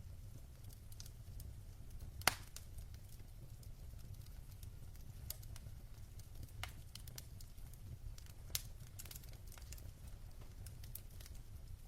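Logs burning in a fireplace, crackling with scattered sharp pops at an uneven pace, the loudest about two seconds in, over a low steady rumble.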